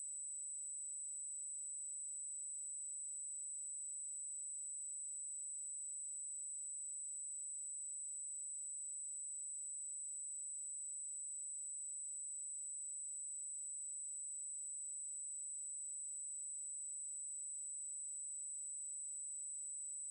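A steady, very high-pitched pure test tone: a 7926 Hz sine wave held at one unchanging pitch and level.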